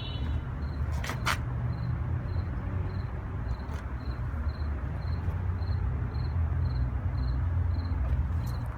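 A cricket chirping evenly, about two chirps a second, over a steady low rumble, with two sharp clicks about a second in.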